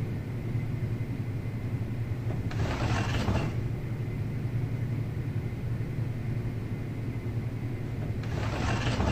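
A steady low hum, with two short hissing swells, one about three seconds in and one near the end.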